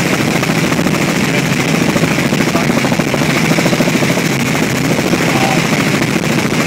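Helicopter in flight heard from inside the cabin: a loud, steady drone of engine and rotor with a fast, even chop.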